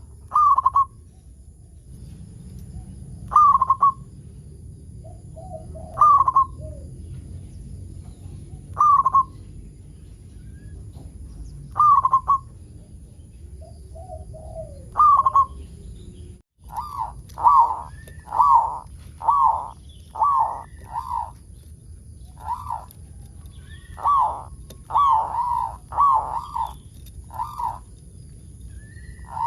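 Zebra dove (perkutut) cooing: short, slightly falling notes repeated about every three seconds, then after a cut about halfway, a quicker run of notes. A faint steady high whine runs underneath.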